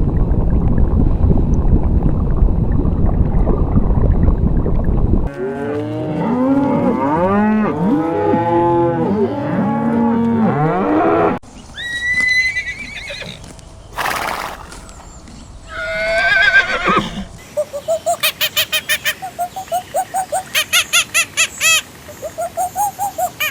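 A run of different farm animal calls. First comes a loud, noisy stretch of about five seconds, then several overlapping calls that rise and fall, a few separate cries, and finally a fast string of short repeated calls.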